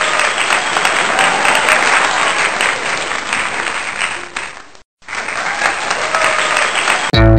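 Crowd applause with faint voices in it, cutting out briefly about five seconds in and starting again. Loud guitar and bass music begins near the end.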